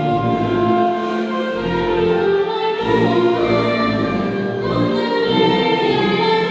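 Orchestral music with a choir singing, held notes changing about once a second.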